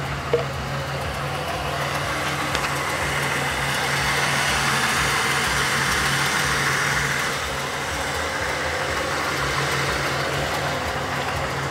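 1997 Chevrolet Malibu's 3.1-litre V6 idling steadily, with a rushing hiss that swells for a few seconds midway and then eases.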